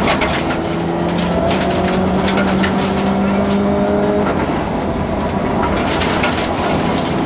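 Subaru Impreza rally car's flat-four engine heard from inside the cabin at speed, pulling hard with its pitch climbing slowly for about four seconds, then easing off. Sharp cracks and rattles come throughout, thickest near the end.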